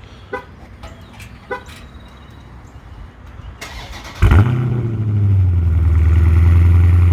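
Two short beeps, then the 2019 Dodge Challenger Scat Pack's 6.4-litre HEMI V8 cranks briefly and fires with a loud flare about four seconds in. It settles into a steady cold-start fast idle, with the car set to track mode.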